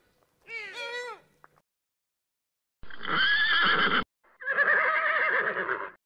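A deer gives a short, arching call, then a horse neighs in two long bursts about three and four and a half seconds in; the neighs are the loudest part.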